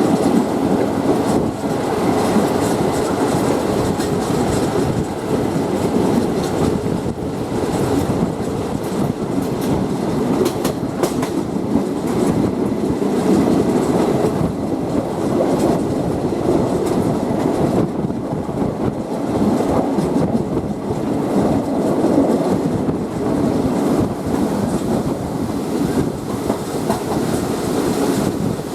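Thai State Railway passenger train running on the rails, heard aboard: a steady rumble of the coach with wheels clicking over rail joints.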